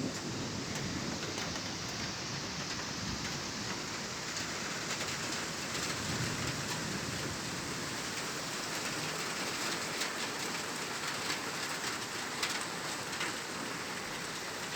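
Steady rain falling. Sharp hits of individual drops close by grow more frequent through the middle and later part.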